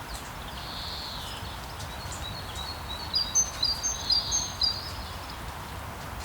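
Small songbirds chirping, with a short warble about a second in and a quick run of short, high chirps in the middle, over a steady wash of sea waves.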